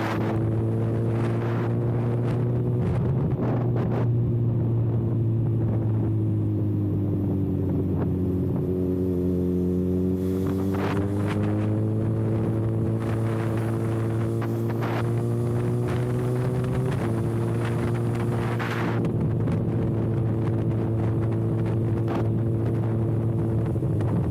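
Kawasaki ZX-6R inline-four running with its exhaust canister removed, holding a steady cruise. The engine note sags gently, then climbs over several seconds, with a small jump in pitch about two-thirds of the way through.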